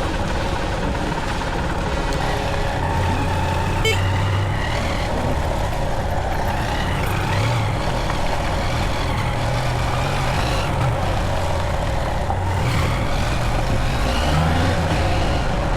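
A Honda XR150L single-cylinder motorcycle engine running under way, its revs rising and falling, under a steady rush of wind noise on the microphone.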